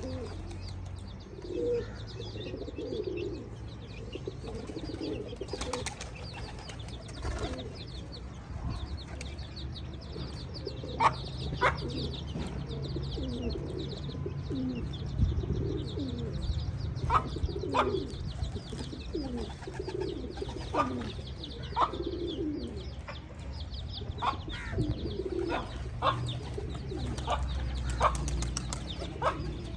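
Domestic pigeons cooing over and over, with short high chirps from other birds scattered through, more of them in the second half.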